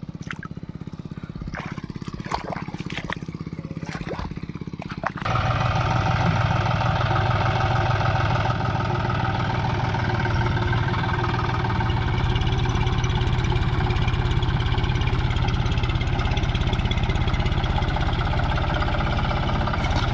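Diesel tractor engine running with a few clicks and knocks over it, then about five seconds in the engine suddenly gets much louder and holds steady at higher revs.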